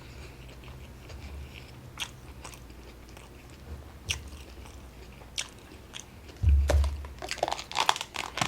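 Close-up mouth sounds of someone chewing fast food, with sparse wet clicks. About six and a half seconds in comes a low thump, the loudest sound, followed by a dense run of crackling and clicking.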